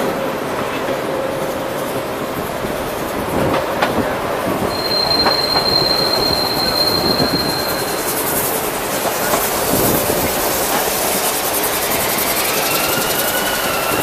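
Diesel-electric multiple unit commuter train running, heard from on board: steady wheel and rail noise with clacks over rail joints. A high steady wheel squeal rings out a few seconds in, and another squeal rises and holds near the end.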